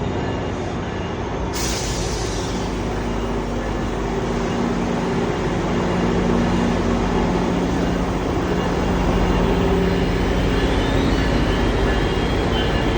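GO Transit commuter train running, with a steady diesel engine drone over rail noise that grows gradually louder toward the end. A hiss comes in about a second and a half in.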